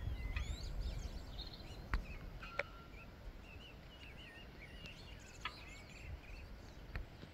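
Small wild birds chirping and singing in spring, many short calls overlapping, over a low background rumble. A few sharp clicks are heard, twice around the middle and once near the end.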